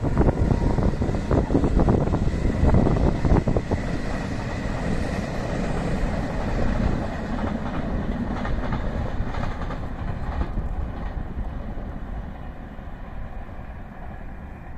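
Regional passenger train hauled by an electric locomotive rolling past, wheels clattering over the rail joints. Loudest in the first few seconds, then fading steadily as the train recedes.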